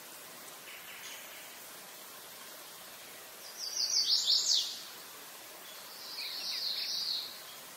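A songbird singing three short phrases of quick, high, downward-sweeping notes: a faint one about a second in, the loudest in the middle, and another near the end, over a steady outdoor hiss.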